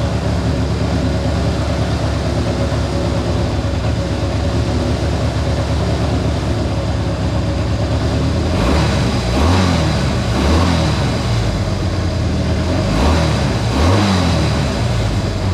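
Honda CA160 Benly's parallel-twin four-stroke engine idling steadily, then revved several times with the throttle from about eight seconds in, its pitch rising and falling with each blip. It is running well on a carburettor whose clogged pilot and main jets have just been cleared.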